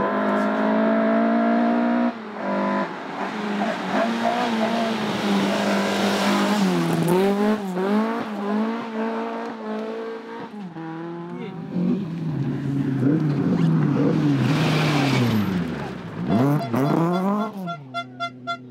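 Rally car engine revving hard through several gear changes, the pitch climbing and dropping with each shift, with tyre noise. Later the engine note falls away as the car passes and moves off. Music with a pulsing beat starts near the end.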